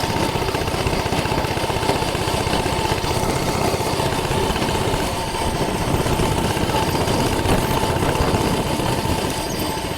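Coleman CC100X minibike's 100cc single-cylinder four-stroke engine, a lawnmower-type engine, running steadily under the load of a riding adult at a modest, even speed.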